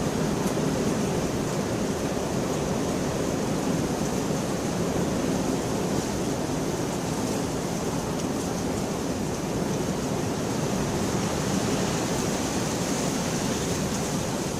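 Steady rain falling, an even wash of sound with no thunder.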